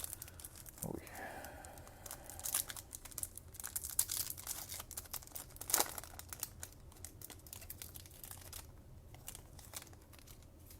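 Foil trading-card pack wrapper being torn open and crinkled by hand: irregular crackling and rustling with one louder sharp crack about six seconds in, dying down near the end.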